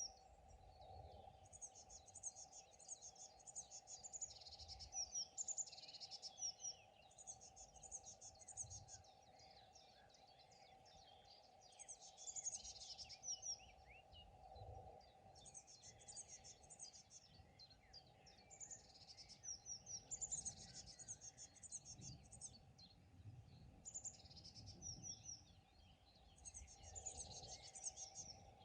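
Songbirds singing: bouts of high, quick chirping and trilling phrases that come back every few seconds, over a faint steady hum.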